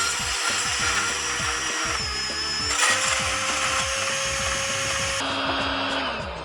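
Power tool running steadily with a high whine, stopping near the end, over background music with a steady beat.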